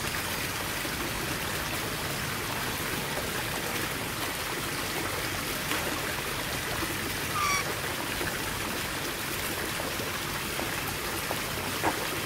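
A thin stream of water trickling steadily, with one short high chirp about halfway through.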